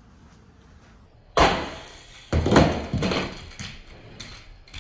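Toy monster trucks shot from a launcher and landing on a plastic track: a sharp knock about a second and a half in, then a second burst of clacks and rattles that trails off into light ticks.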